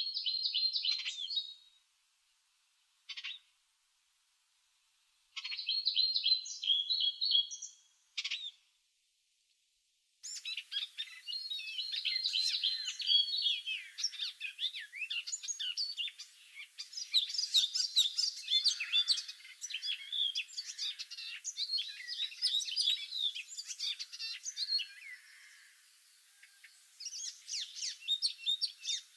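Songbirds singing in spring: a few short separate chirping phrases with silent gaps between them, then from about ten seconds in a dense, continuous chorus of many birds.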